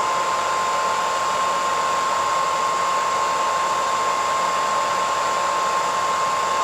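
Electric hairdryer running steadily: a constant rush of air with a high motor whine running through it.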